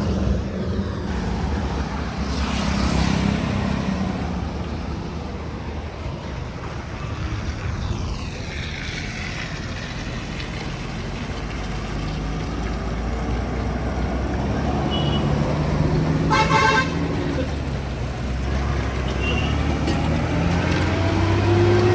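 Heavy Tata trucks passing on a highway, diesel engines and tyres rising and fading as each goes by. One short horn blast sounds about two-thirds of the way through.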